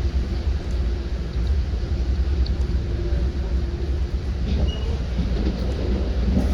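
Commuter train under way, heard from inside a passenger coach: a steady low rumble with a faint humming tone that fades out about four seconds in.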